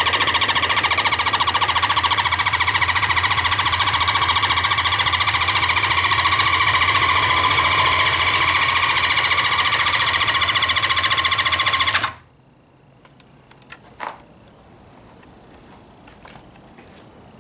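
Honda CB400 Four's 408cc four-cylinder engine cranked on the electric starter, a steady fast whirring that does not catch, stopping abruptly about twelve seconds in. A single click follows a couple of seconds later.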